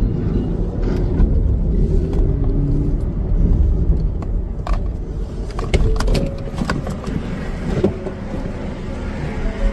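A car being driven, with steady low road and engine rumble. A few sharp clicks or knocks sound over it, several between about five and seven seconds in.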